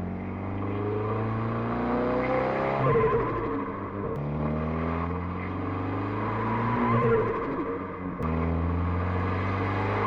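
FL5 Honda Civic Type R's turbocharged 2.0-litre four-cylinder, running an RV6 660 turbo and a Milltek resonated exhaust with the valve open, accelerating hard through the gears. The engine note climbs in pitch, drops at a gear change about three seconds in, climbs again, and drops at another shift about eight seconds in.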